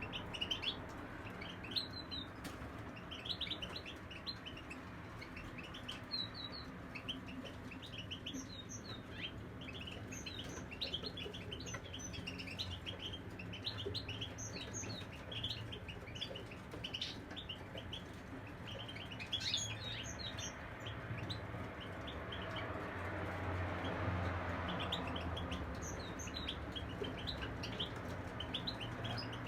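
Several caged European goldfinches chirping and twittering, with many short, high notes in quick succession throughout, over a low background rumble.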